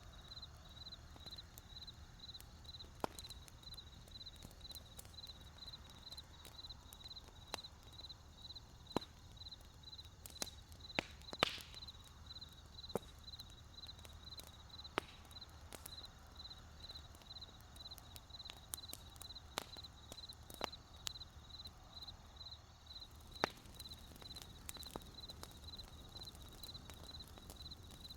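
Wood campfire crackling with scattered sharp pops, the loudest about 11 seconds in, over a low rumble of the fire. Crickets chirp steadily and high-pitched throughout, about three or four chirps a second.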